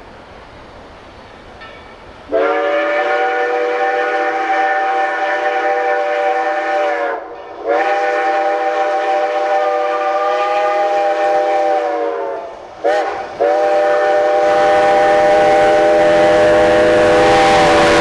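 Narrow-gauge steam locomotive's chime whistle blowing long, long, short, long, the grade-crossing signal. The rumble of the approaching train builds under the last blast.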